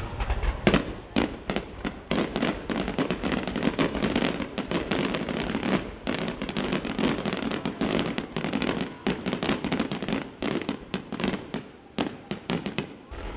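Aerial fireworks shells bursting in quick succession: a dense, continuous run of sharp bangs and crackles.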